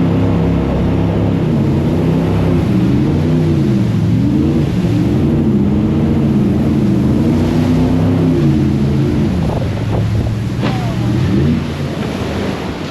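Jet boat engine revving up and down at speed, its pitch repeatedly swinging, over rushing wind and water spray. About ten seconds in the engine drops back, a brief high sweep sounds, and it eases off near the end.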